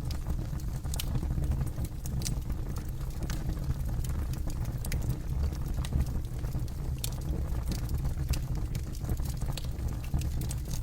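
Campfire burning, with scattered sharp crackles and pops over a steady low rumble of flame.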